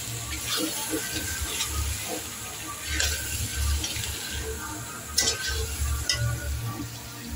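Chicken and masala paste frying in oil in a pan with a steady sizzle, stirred with a spatula that scrapes and knocks against the pan a few times. The curry is at the bhuna stage, being fried down after the fried-onion and garam masala paste goes in.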